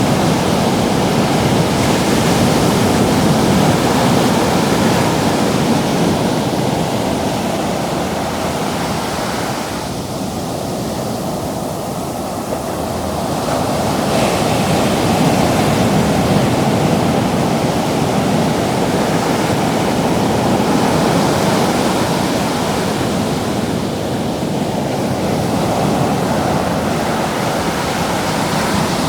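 Ocean surf washing and breaking on the beach, a continuous rush that swells and eases as waves come in, with a lull about a third of the way through.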